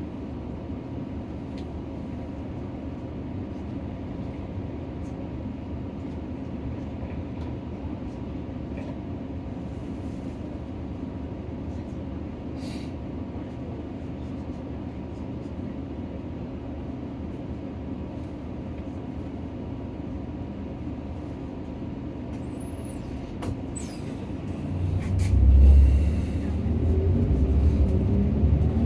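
Nissan Diesel PKG-RA274KAN city bus heard from inside the cabin: the diesel engine runs steadily at low revs, then about 24 seconds in it gets much louder and deeper as the engine is put under load, with a few light clicks and rattles.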